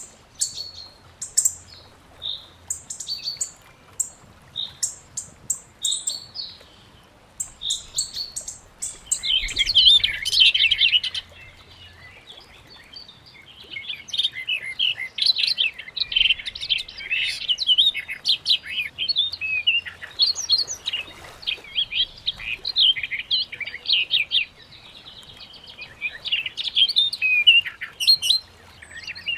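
Several birds chirping: at first short, separate high chirps, then from about nine seconds in a dense, rapid twittering chorus that carries on, with a short lull, through most of the rest.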